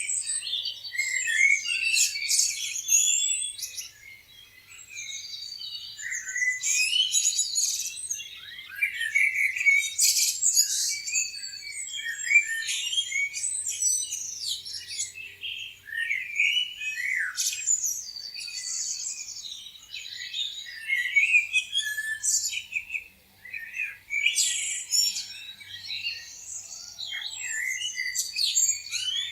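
Many small songbirds chirping and singing together, a dense chorus of quick high chirps and short trills that overlap without a break.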